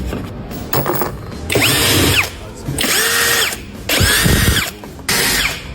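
Handheld power tool run in about five short bursts, its motor whine spinning up, holding and winding down each time, as suspension bolts are worked on during a lower control arm ball joint replacement.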